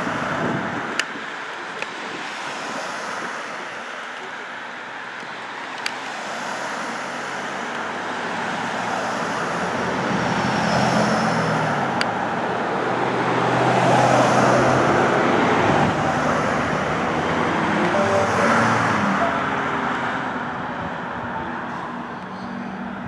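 Engine noise from a passing aircraft, swelling to its loudest past the middle and fading toward the end, with an engine's hum shifting in pitch as it goes by. A few sharp clicks sound in the first half.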